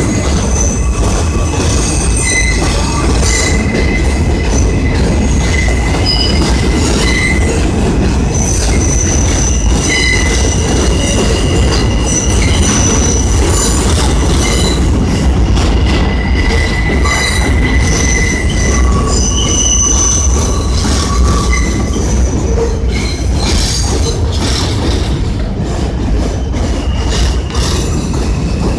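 New York City subway train running through the station, its steel wheels squealing on the rails over a steady low rumble. The squeals come and go, and the noise eases off a little near the end.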